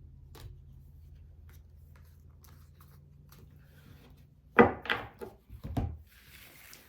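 A faint steady low hum, then three or four loud knocks on a wooden surface about four and a half to six seconds in, followed by a soft rustle.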